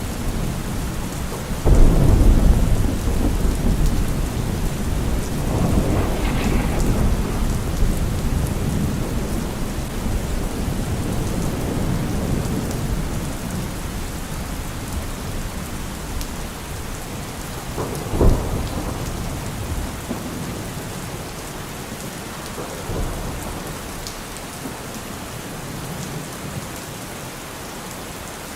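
Steady rain with rolling thunder: a loud low rumble a couple of seconds in that dies away slowly, another roll soon after, and a sharper clap later on.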